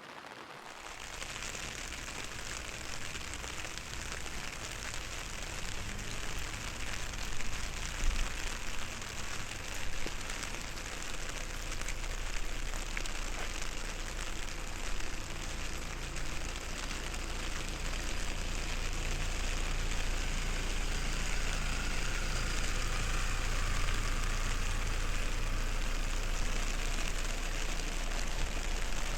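Steady rain pattering on an umbrella and the wet street, with a low steady rumble underneath, growing gradually louder.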